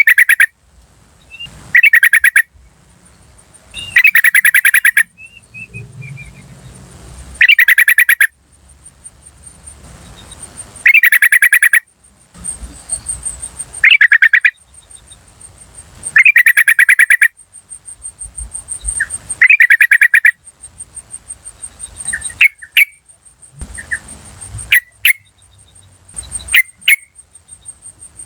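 Yellow-vented bulbul (trucukan) calls: repeated loud bursts of rapid chattering 'cuk cuk cuk' notes, about one burst every two to three seconds, giving way to shorter single chirps near the end. A fast, steady, high-pitched ticking runs under the calls from about a third of the way in.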